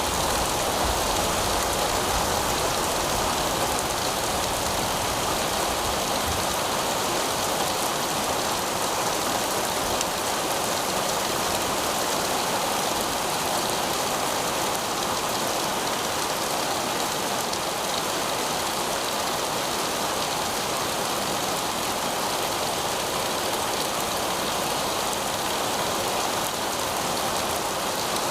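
Heavy rain falling steadily on pavement, a dense even hiss of drops.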